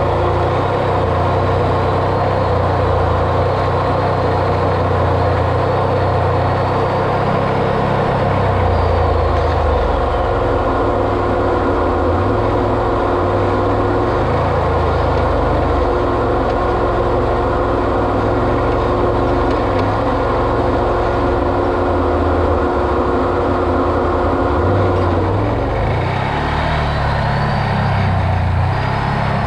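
Off-road vehicle driving, its engine running steadily with a constant rumble and a steady whine. The whine drops in pitch and fades about 25 seconds in.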